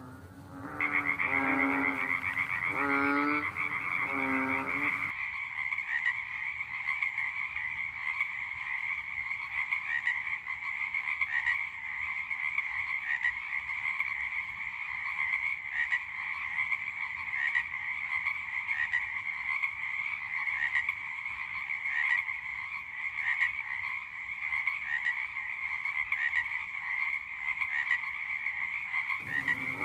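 A large frog croaking: about four deep, drawn-out calls in the first five seconds, over a steady high-pitched trilling chorus. After that the croaking stops and only the high chorus goes on until the croaks return at the very end.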